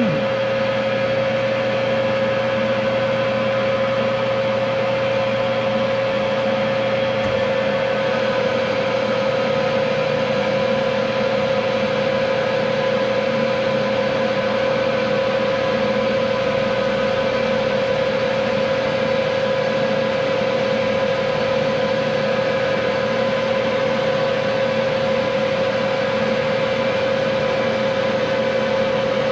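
Machine tool in a machine shop running steadily, with a constant whine from its motor and drive. A low hum underneath stops about seven seconds in.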